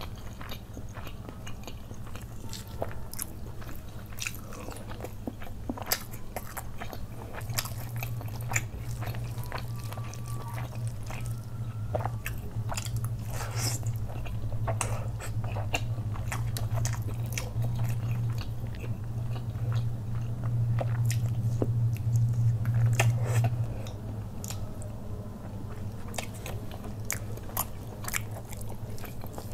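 Close-up mouth sounds of chewing soft fried rice and butter chicken curry eaten by hand, with many wet smacks and clicks. A steady low hum runs underneath, louder through the middle and dropping back a few seconds before the end.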